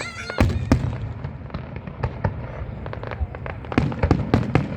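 Fireworks going off: a run of irregular sharp bangs and crackles over a low rumble, with the loudest bangs about half a second in and a quick cluster near the end.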